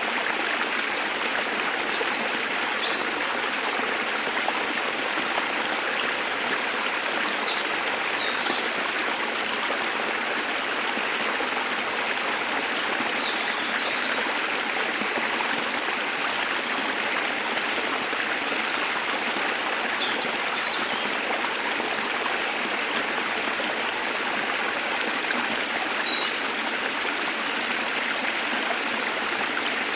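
Steady rush of a waterfall, with a few faint, brief bird chirps scattered over it.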